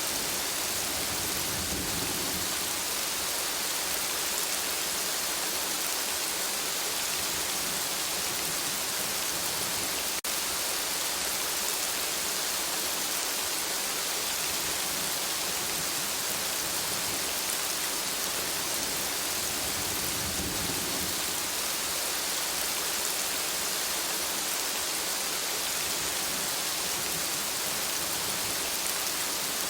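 Steady rain falling, an even hiss, with two soft low rumbles of distant thunder, one near the start and one about two-thirds of the way through. There is a brief click about a third of the way in.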